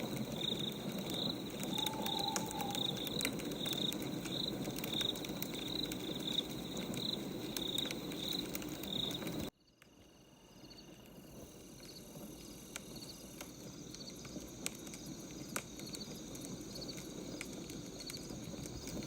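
Crickets chirping in a steady rhythm over the snap and crackle of a wood fire. The sound cuts out abruptly about halfway through, then fades back in with the chirping fainter.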